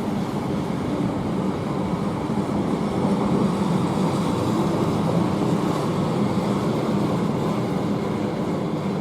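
A train running past on the line: a steady rumble of wheels on rails that swells a little in the middle and eases off near the end.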